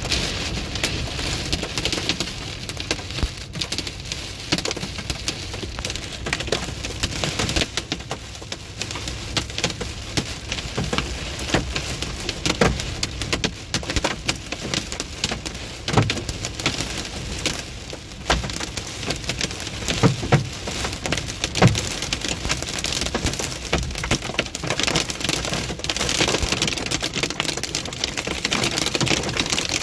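Hailstorm: a steady hiss of heavy rain with a dense clatter of hailstones striking hard surfaces, a few heavier strikes standing out in the second half.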